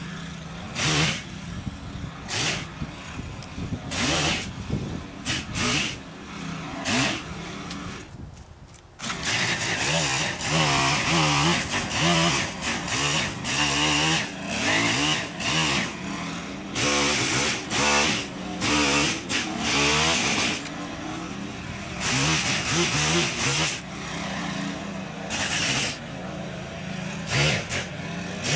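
Chainsaw cutting low branches off trees, revving in short repeated surges, dropping back for a moment about eight seconds in, then running under load with its pitch rising and falling.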